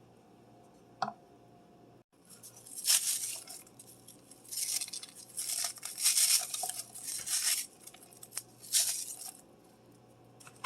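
Kitchen handling sounds: dishes and utensils clattering and rustling in several bursts over a few seconds, after a short click about a second in.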